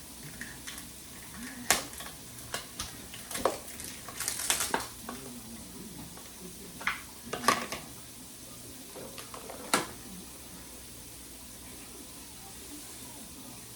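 Knocks and clicks of groceries being handled and put away, about half a dozen sharp ones with a busier patch around four to five seconds in, then only a faint steady background after about ten seconds.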